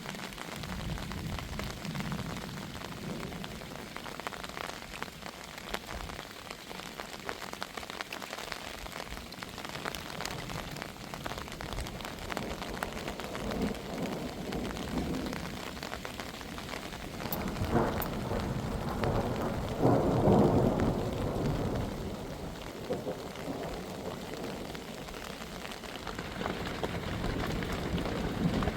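Heavy rain falling steadily. About two-thirds of the way through, a clap of thunder breaks and rolls on as a low rumble for several seconds before fading.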